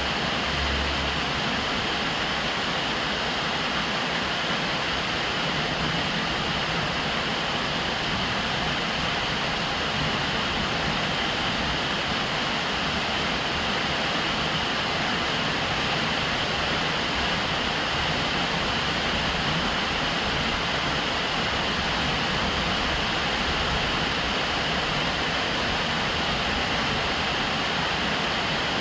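Steady rain falling on a roof: a continuous, even hiss without breaks or separate drops standing out.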